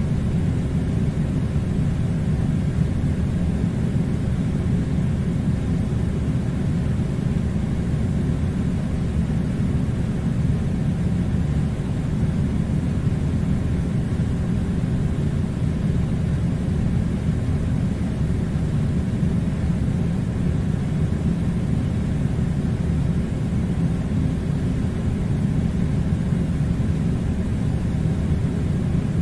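Steady, unchanging low rumbling noise, heaviest in the bass, with no breaks or changes.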